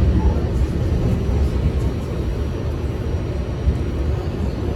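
New York City subway train running, a steady low rumble of wheels and car body on the track.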